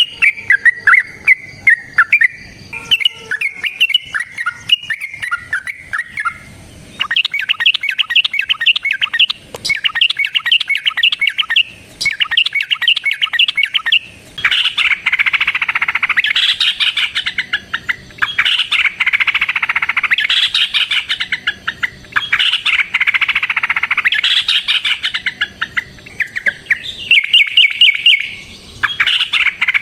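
Yellow-vented bulbul (trucukan) singing in long, rapid chattering phrases of a couple of seconds each, the vigorous fighting-style song used as a lure to set other bulbuls singing.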